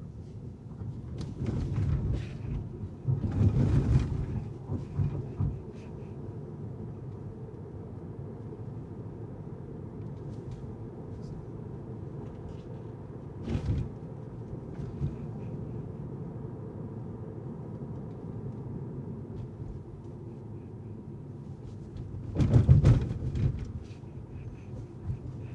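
Steady low road and engine noise of a car driving. Louder rumbling thumps come a second or so in for a few seconds, once briefly midway, and again near the end.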